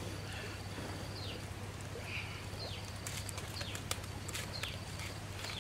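Birds calling: short whistled notes that slide downward, repeated about once a second and more often in the second half. From about halfway through, a scatter of sharp clicks joins in, over a steady low hum.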